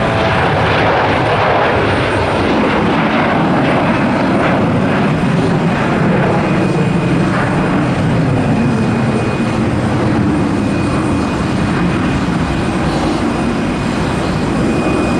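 Jet noise from an Embraer 175's twin General Electric CF34 turbofan engines at takeoff power as the airliner climbs away. It is a loud, steady rushing noise whose low hum sinks slowly in pitch as the aircraft recedes.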